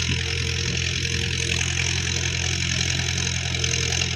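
Diesel tractor engine running steadily at an even speed, with a constant hiss over it.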